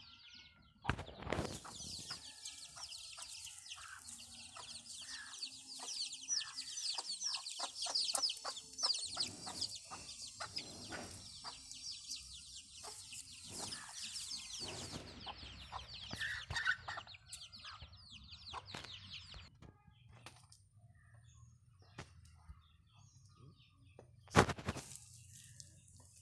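Chickens clucking, with dense high-pitched chirping for most of the first twenty seconds, then only scattered quieter sounds. A single sharp knock comes about twenty-four seconds in.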